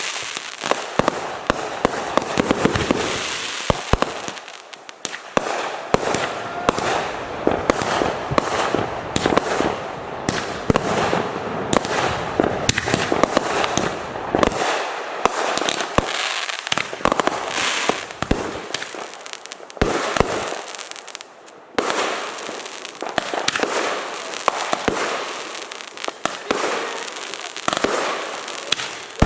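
Fireworks going off: dense rapid crackling and popping with many sharp reports, close together throughout.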